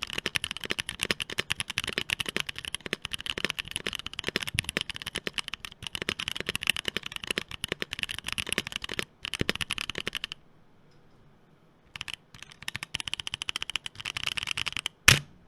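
Fast typing on a Bakeneko60 60% mechanical keyboard with Boba U4T tactile switches and ABS doubleshot keycaps, a dense run of key clacks. It stops about ten seconds in, and after a short pause keys are pressed again, ending with one louder key strike near the end.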